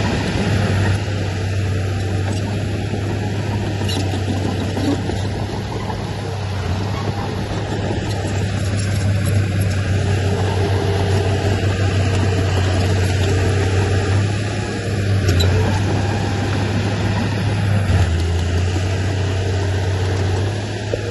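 Heavy earthmoving machinery's diesel engine running steadily, a strong low drone with small shifts in level.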